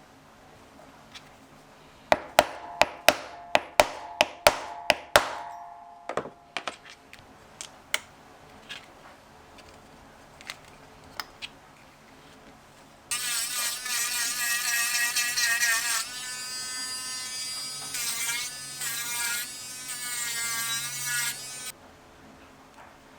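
Leatherworking tools at work: about ten quick, sharp metallic strikes with a short ring, then a small electric motor-driven hand tool buzzing for about eight seconds, its pitch wavering and dropping as it is pressed into the work.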